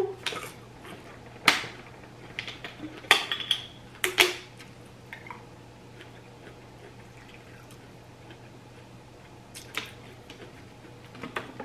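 Crisp, wet crunches of a Saturn peach being chewed close to the microphone, several sharp crunches in the first four seconds. Then water poured from a plastic bottle into a glass, with a couple of clicks near the end.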